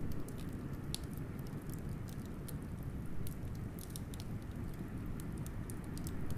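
Wood fire crackling, with frequent irregular sharp pops and snaps, over a steady low rumble of blizzard wind.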